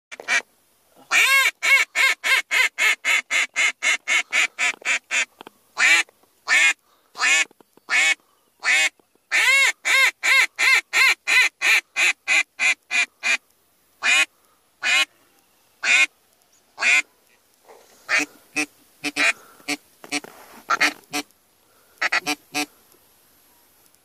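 Birds calling in loud, fast runs of about five calls a second, broken by short gaps; from about fourteen seconds in the calls come sparser, and they turn fainter near the end.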